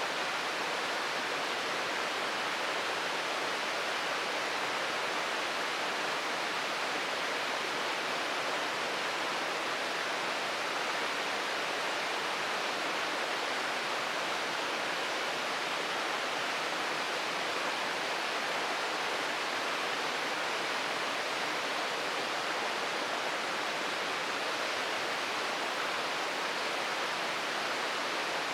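Waterfall pouring, a steady even rush of falling water without a break.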